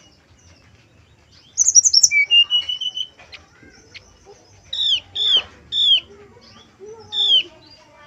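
Brown-chested jungle flycatcher song: after a quiet start comes a burst of rapid, very high twittering notes, then a short level whistle, then a run of loud, short down-slurred call notes about half a second apart.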